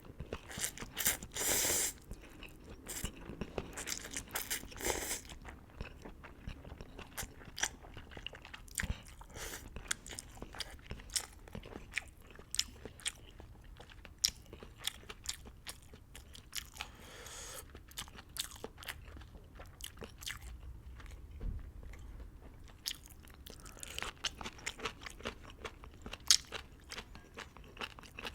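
Close-miked eating of beef hot pot noodles: a few loud noisy slurps in the first couple of seconds, then steady chewing and biting with many small wet clicks.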